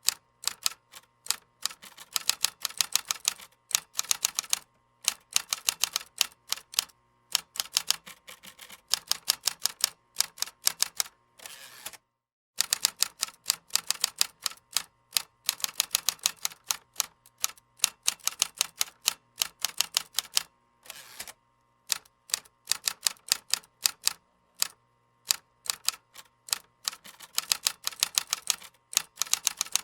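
Typing on a computer keyboard: fast runs of keystroke clicks broken by short pauses, with a brief complete break about twelve seconds in.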